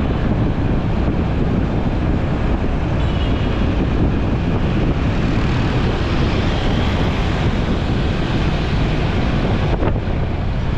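Steady wind buffeting on the microphone of a moving motorcycle, mixed with road and engine noise from the bike and traffic.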